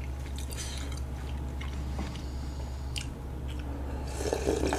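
Close-miked chewing of food, then near the end slurping stew broth drunk straight from an earthenware bowl, over a steady low hum.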